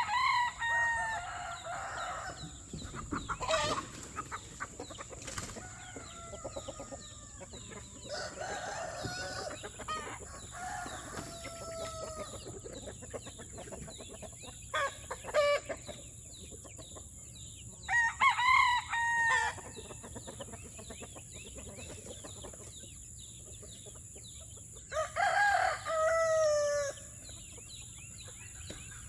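Roosters crowing three times, each crow long and falling in pitch at the end, with chickens clucking quietly in between.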